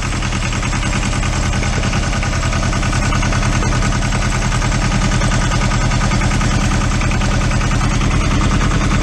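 Yanmar 240D diesel tractor engine running steadily as the tractor drives along in second gear, with a fast, even chugging. It grows slightly louder about halfway through.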